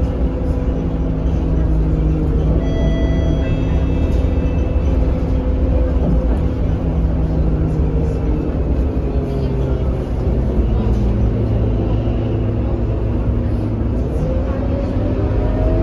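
Scania K230UB bus's diesel engine running, its pitch sinking slowly as the bus eases off, then rising again near the end as it pulls away. A short high chime sounds a few seconds in.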